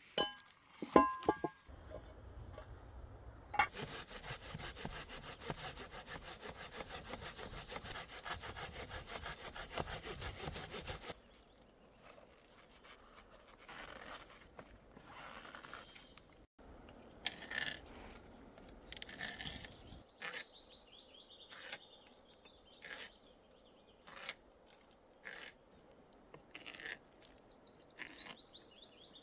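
Hand saw cutting through wood in fast, even strokes for about seven seconds, then stopping. Quieter scraping and a scatter of sharp knocks follow, with a small bird chirping near the end.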